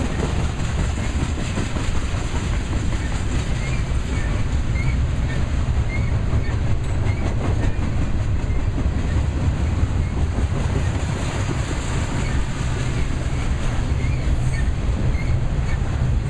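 Intermodal freight train cars rolling past on the rails: a steady rumble of wheels on track with faint, regularly repeating clicks.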